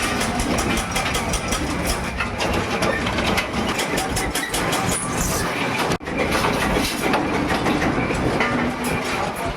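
Metalworking machinery clattering steadily with many rapid metallic clicks and knocks. It breaks off for an instant about six seconds in, then carries on.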